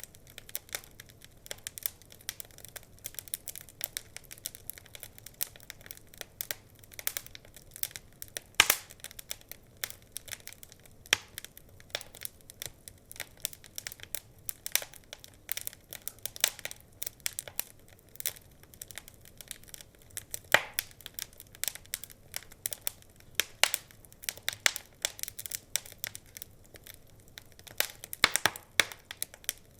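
Wood fire crackling, with constant irregular small pops and a few louder snaps, about a third of the way in, about two-thirds in and near the end.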